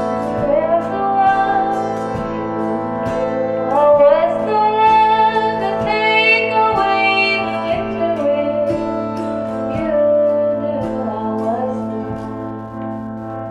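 Instrumental folk music: a bowed Stroh violin plays a sliding, wavering melody over a steady low drone and evenly spaced plucked-string notes. The music fades down near the end.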